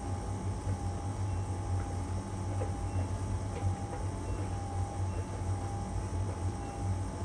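LG heat pump tumble dryer running in its drying stage: a steady low hum from the drum and compressor, with a thin steady whine. There are a few faint light ticks from the laundry tumbling.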